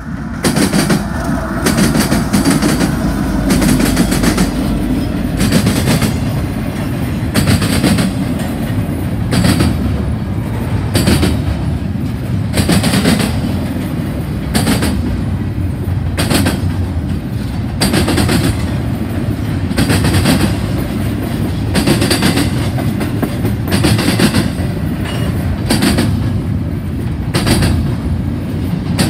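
Double-stack intermodal freight train passing close by. The lead locomotives, a GE ET44AC followed by an EMD SD75I, come up loud about half a second in, and then loaded container well cars roll past with a steady heavy rumble. Sharp wheel clacks come every second or so.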